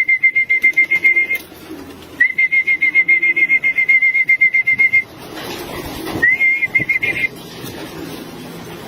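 A keeper's trilled whistle calling pigeons down to feed, sounded three times: two long blasts and a short one, each at one steady high pitch with a fast warble.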